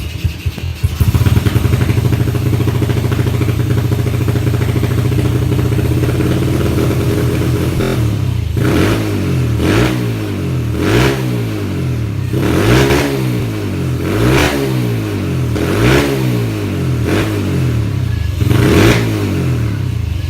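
2007 Yamaha Vega R's small single-cylinder four-stroke engine running on its stock exhaust, idling steadily at first, then from about eight seconds in blipped repeatedly, a rev roughly every second or so. The running is described as a bit choppy.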